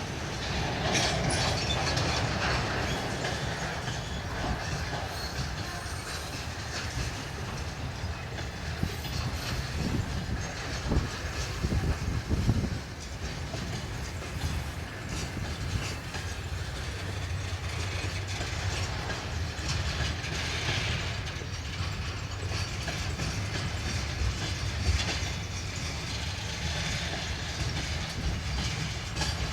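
Freight train wagons rolling past, the wheels clacking steadily over rail joints with a low rumble.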